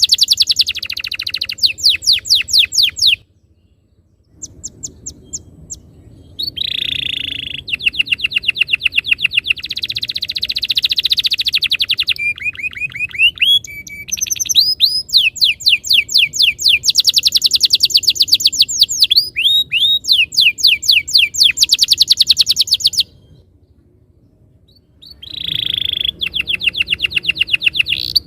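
Domestic canary singing: long, fast rolling trills of rapidly repeated high down-slurred notes, with brief pauses about three seconds in and again near the end.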